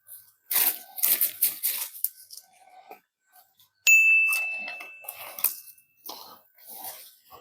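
Branches and brush crackling and crunching in a series of bursts. About four seconds in comes a sharp metallic clang that rings on one clear tone and fades over a couple of seconds, followed by more crackling.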